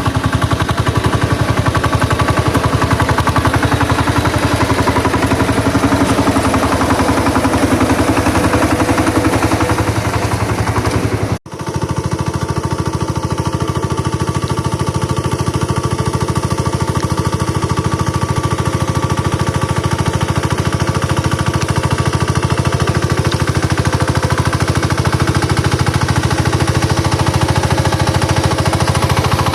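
Engine of a ploughing machine running steadily under load, with a fast, even putt-putt of firing strokes. The sound cuts out for a split second about eleven seconds in, then carries on.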